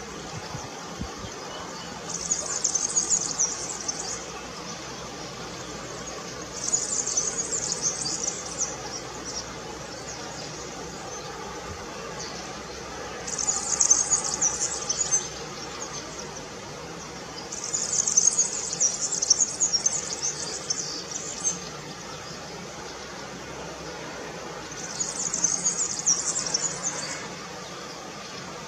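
European serin singing: five high-pitched, rapid twittering song phrases of two to three seconds each, separated by pauses of a few seconds.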